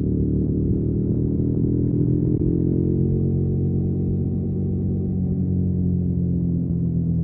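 2021 KTM Duke 125's single-cylinder engine running through a Storm GP aftermarket exhaust while riding. The revs ease down slightly a few seconds in, then hold steady.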